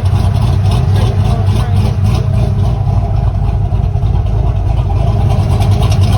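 Chevrolet car engine running steadily.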